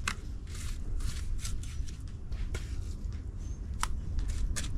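Bricklaying work with cement mortar: a string of short, irregular scrapes and taps of a trowel and bricks.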